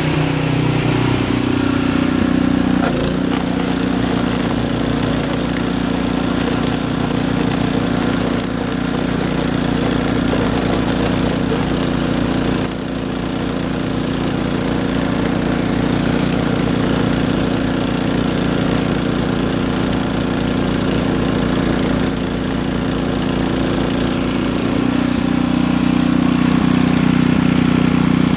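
Snowblower engine running steadily, its pitch shifting down about a second in and back up near the end, with a steady high whine over it.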